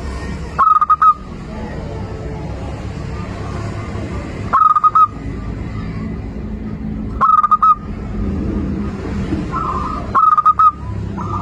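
Zebra dove cooing: four loud short phrases of rapid staccato notes, about three seconds apart, with fainter calls between them, over a steady low background hum.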